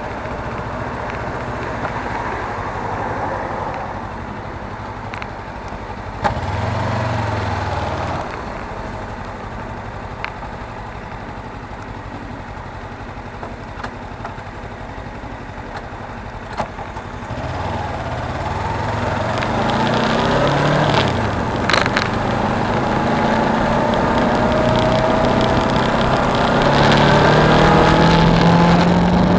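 Suzuki V-Strom 250 parallel-twin engine running on the road under steady wind rush, its pitch climbing in the second half as the bike accelerates.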